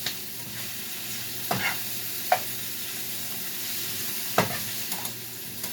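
Oil sizzling steadily in a frying pan as food fries, with a few short sharp clicks, like a utensil tapping the pan.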